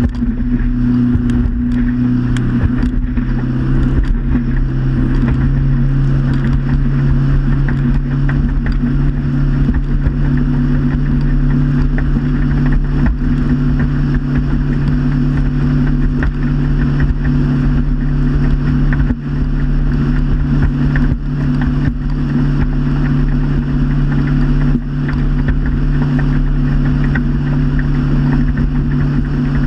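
Motorboat engine running under way at a steady pitch, with rushing noise and occasional knocks.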